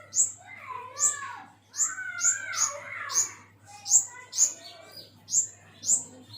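A pentis kumbang, a small flowerpecker kept as a songbird, singing: a run of sharp, high notes that each drop quickly in pitch, about one or two a second, over a softer, lower twittering warble.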